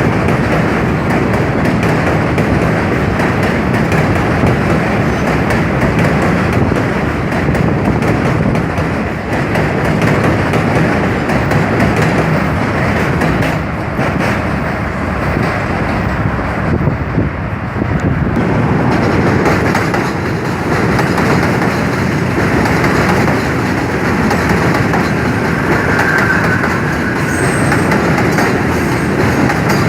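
New York City subway train running across the Williamsburg Bridge, a loud, steady rumble and clatter of steel wheels on the rails.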